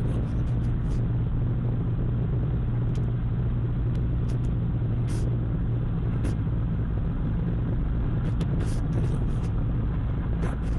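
Steady low rumble of a car driving, with a few faint, scattered ticks.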